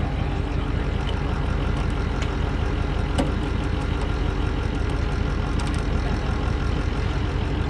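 A motor vehicle's engine running steadily with a low rumble, with one sharp click a little over three seconds in.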